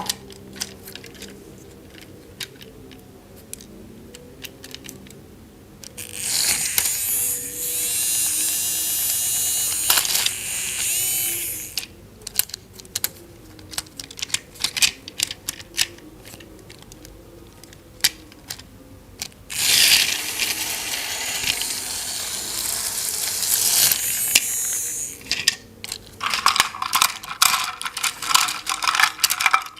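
Small electric motor and plastic gears of a battery-powered toy train buzzing, twice for about five or six seconds each, amid frequent sharp clicks of plastic toy pieces being handled.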